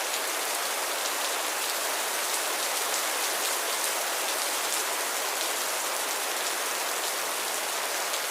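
Steady gentle rain falling, an even hiss with fine drop patter and no thunder.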